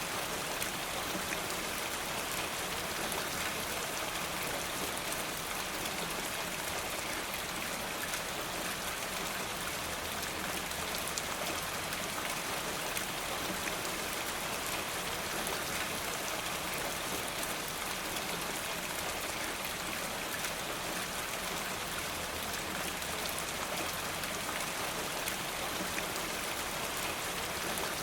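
Steady rain falling: a dense, even patter with scattered small ticks that holds level throughout.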